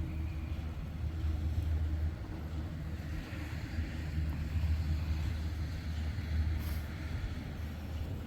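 Steady low rumble of a heavy vehicle, with most of the sound deep in the bass and small rises and falls in level.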